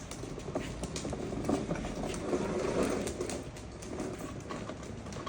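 Small electric motor and plastic gearbox of a toy Jeep whirring as it drives, with a continuous rattly hum that swells and eases.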